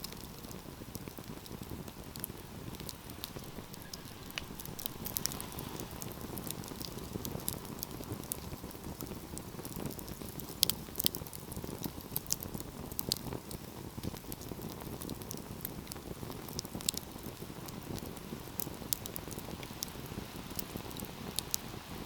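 Wood fire crackling: irregular sharp snaps and pops over a steady low rush of burning, with a few louder snaps about halfway through.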